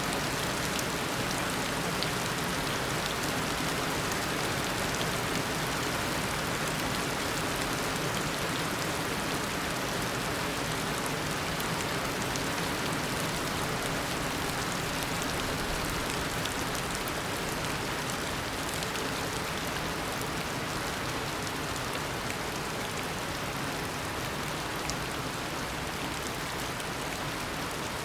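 Heavy tropical rain falling steadily in a rainforest, a dense even hiss of rain with scattered individual drops ticking on surfaces.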